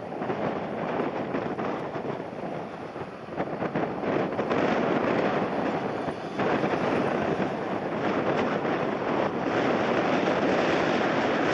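Strong gusting wind buffeting the microphone, mixed with the rushing jet noise of an airliner landing in a heavy crosswind. The noise grows louder about three and a half seconds in and again about six and a half seconds in.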